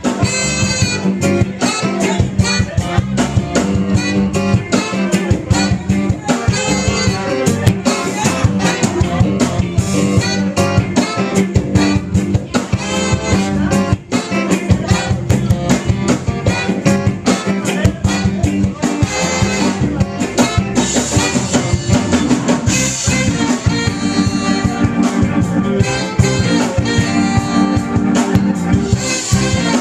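Instrumental band music: a drum kit keeping a steady beat under guitar and horns, with no singing.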